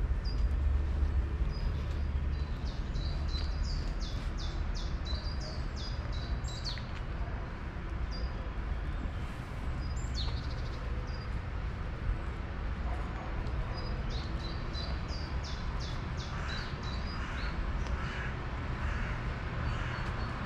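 Songbirds singing: two runs of rapid, high, repeated chirps with scattered single notes between them, over a steady low rumble.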